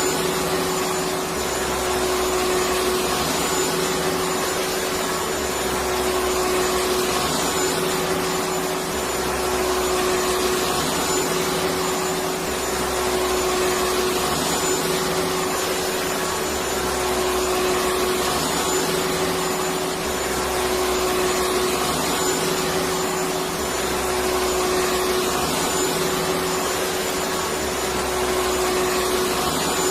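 Electric vacuum cleaner running steadily: a constant motor whine over an even rushing hiss of air.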